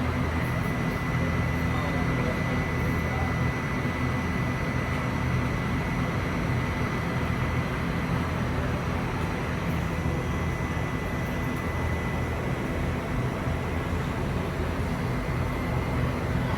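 Steady hum of a stationary electric train idling at the platform, with a thin constant high whine over it.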